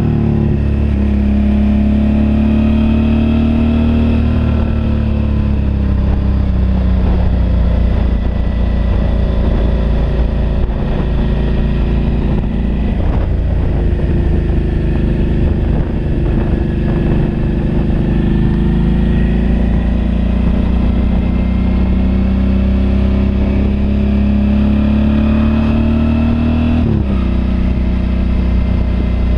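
Suzuki V-Strom DL650's V-twin engine pulling under way, its pitch rising with the revs, easing off, then rising again. Near the end the revs drop suddenly as it shifts up from second gear into third.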